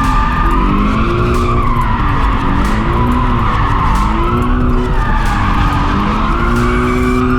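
Car being drifted: the engine revs rise and fall repeatedly, with tyre squeal throughout. Near the end the revs hold steady.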